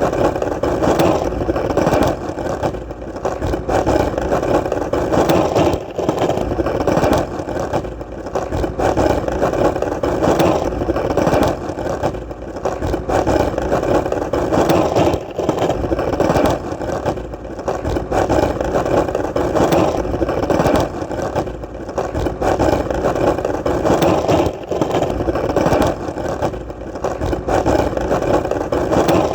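Skateboard wheels rolling on hard ground: a continuous rolling rumble that swells and eases about every two seconds.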